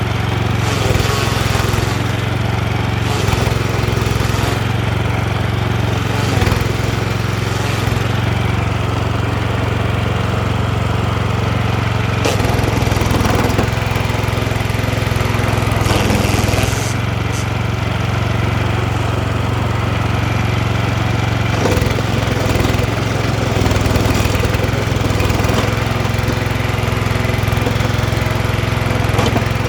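DR stump grinder's petrol engine running steadily under load as its tungsten-tipped cutter wheel grinds into a tree stump, with a few sharper knocks and scrapes from the cutting.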